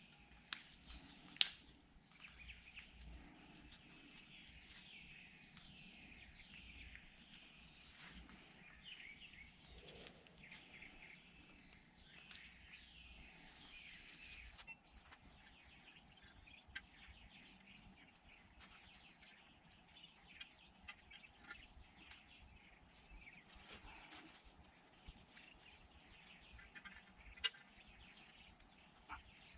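Faint birds chirping, with a few sharp clicks, the loudest about a second and a half in and another near the end.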